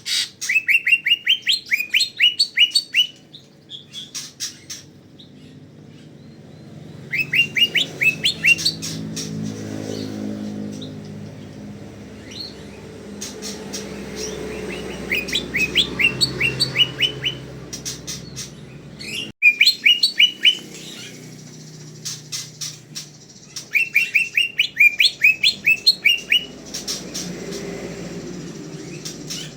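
Cucak ijo (green leafbird) singing in rapid bouts of quick rising chirps. Each bout lasts two to three seconds and repeats every few seconds, about six times.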